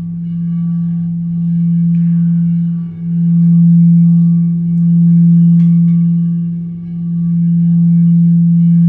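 A loud, sustained low ringing tone with fainter higher overtones, swelling and fading slowly every couple of seconds.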